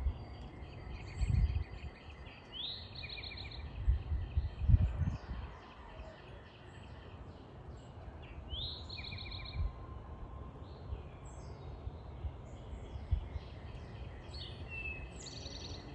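Songbirds, a tufted titmouse among them, calling and chirping with high, quick notes. Two rapid trills of sliding notes come about two and a half and nine seconds in. Low thumps on the microphone come in the first five seconds.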